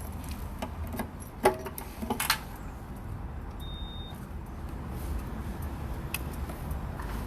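Steady low vehicle rumble with a few sharp clicks and knocks about a second and a half and two seconds in, and one short high beep near the middle.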